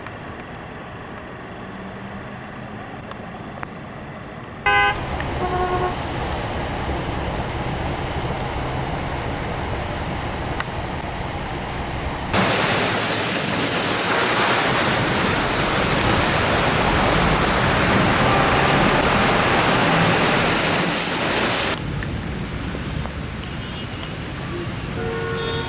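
Road traffic in the rain: cars running on wet streets, with a short horn toot about five seconds in. Then about nine seconds of loud, steady rushing water from the downpour before it drops back to quieter traffic noise.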